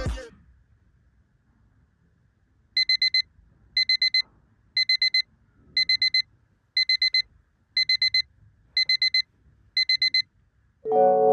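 Digital alarm clock beeping in quick groups of four, each group repeating about once a second, eight groups in all.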